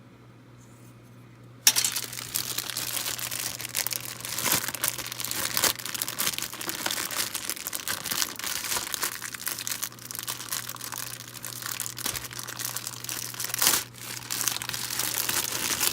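Plastic packaging crinkling steadily as model kit parts are handled, starting suddenly about two seconds in.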